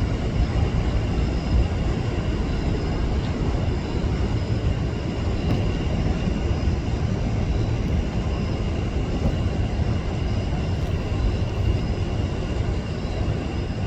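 Jet airliner engines rumbling steadily, with a faint high whine above the deep rumble.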